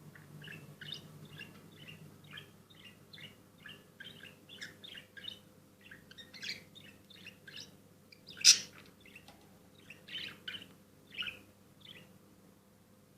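A small bird chirping over and over in short, high chirps, about two a second, with one much louder, sharp sound a little past the middle; a faint steady hum lies beneath.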